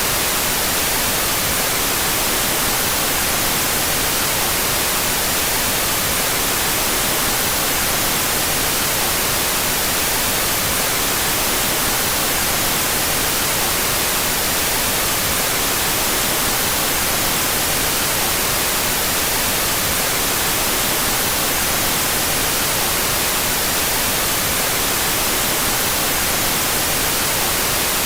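Steady electronic white noise, an even hiss weighted toward the highs and unchanging throughout, with its two stereo channels out of phase.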